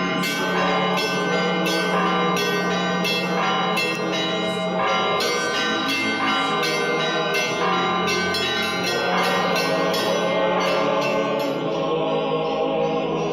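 Church bells ringing in a quick, even peal, about two to three strikes a second, over a steady low held tone. The strikes stop about eleven seconds in, leaving a sustained musical chord.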